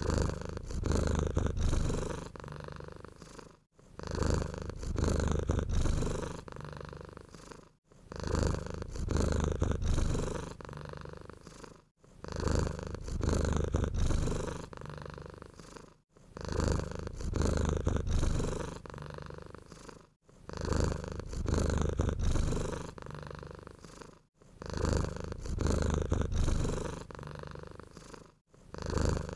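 Domestic cat purring close up, the low rumble swelling and fading with each breath. The same few seconds of purring repeat in a loop about every four seconds, with a brief silent gap between repeats.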